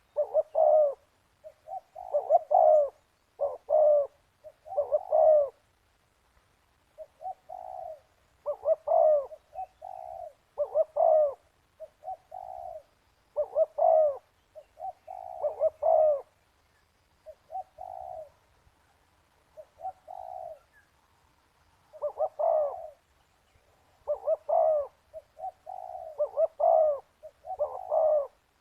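Spotted dove cooing: short phrases of a few low coos, repeated every second or so in bouts separated by brief pauses.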